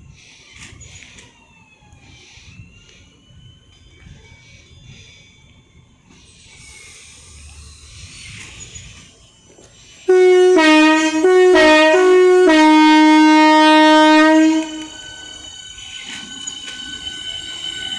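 A train's two-tone horn sounds about ten seconds in: three short blasts in quick succession, then one held blast of about two seconds that cuts off. After it, a train's approach is heard as a steady set of high ringing tones that grows louder.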